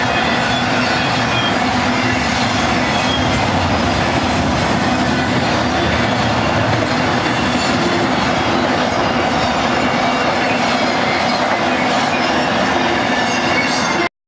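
Intermodal freight train of truck trailers on flatcars rolling past close by: a steady, loud rush of steel wheels on rail with thin squealing tones from the wheels. It cuts off suddenly near the end.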